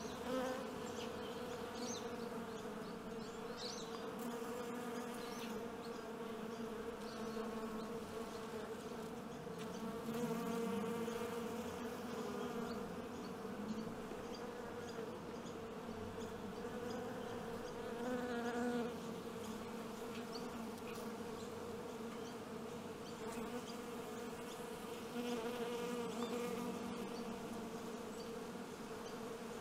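Honeybees buzzing: a steady wingbeat hum whose pitch wavers slightly, swelling a little louder a few times.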